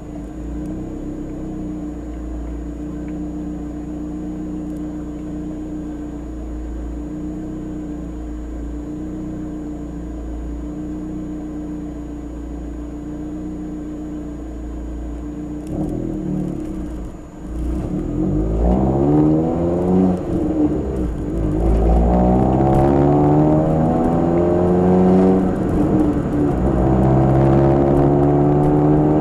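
Nissan K12 March 12SR's 1.2-litre four-cylinder engine through a Kakimoto aftermarket exhaust, heard on board: it holds steady revs, then from about 17 seconds in accelerates hard, revs climbing three times and dropping at each upshift, louder under load.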